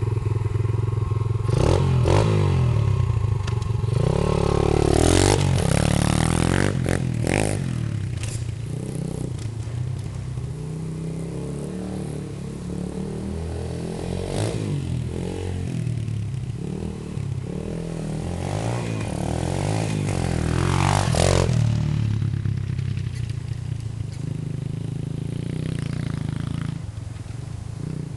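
Piranha 125cc pit bike's single-cylinder four-stroke engine being ridden and revved up and down, its pitch rising and falling, passing loudest near the start and again about three-quarters of the way through.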